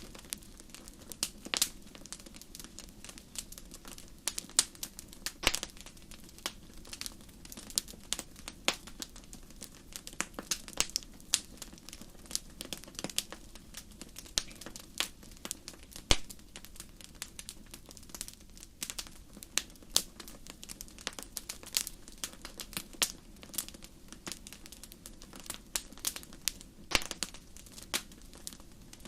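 Wood fire crackling in a fireplace: irregular sharp pops and snaps, a few louder ones, over a soft steady hiss of burning.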